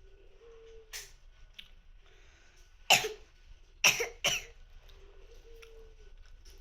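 A person coughing: a small cough about a second in, then three loud coughs, the last two close together.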